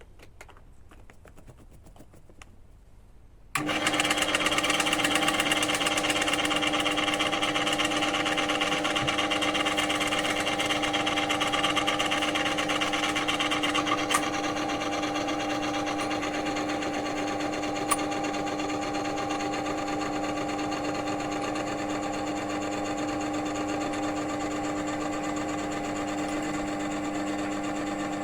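A few light clicks, then about three and a half seconds in the electric motor of a friction-test machine switches on and runs steadily with a hum and whine. It is driving a test roller lubricated with water plus Metal Guard additive. It eases slightly in level after about fourteen seconds.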